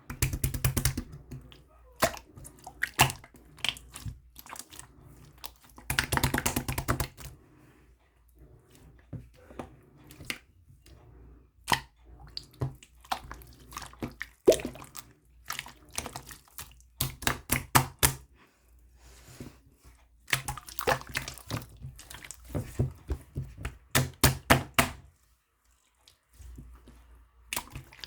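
Slime being squished and pressed by hand, in bursts of rapid sticky clicks and pops with short quiet pauses between them.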